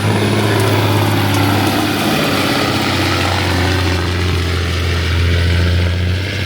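Diesel pickup truck engine running loud and steady, a deep drone with a higher whine that dips and rises again about midway.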